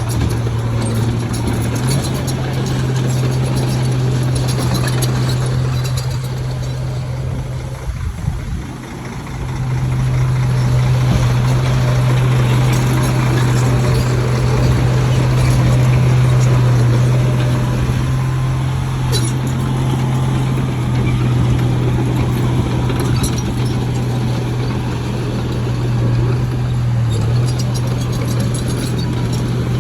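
Heavy diesel engine of an earthmoving machine, most likely the Shantui bulldozer, running steadily under load. It eases off briefly about eight seconds in, then picks up again.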